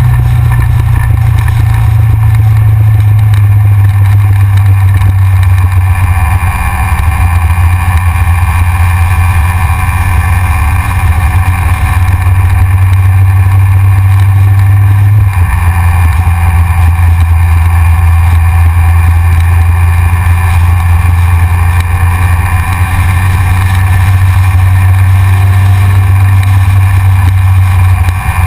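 Yamaha XJR air-cooled inline-four motorcycle engine running at a steady cruise while riding, loud and close, with rushing noise over it; the engine note steps down in pitch about halfway through, as at a gear or throttle change.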